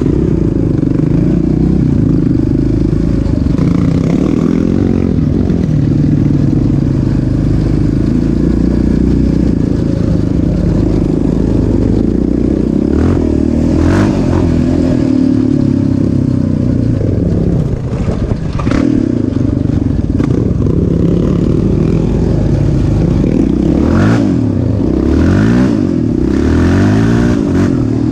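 Off-road vehicle engine being ridden hard, its revs rising and falling again and again as it accelerates and backs off, with a few sharp knocks and clatters along the way.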